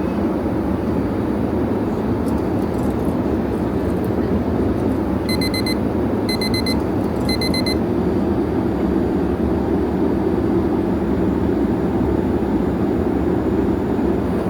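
Steady airliner cabin noise of an Airbus A350-900 in cruise: the low rumble and rush of engines and airflow heard inside the cabin. About five seconds in, three short bursts of rapid electronic beeping sound about a second apart.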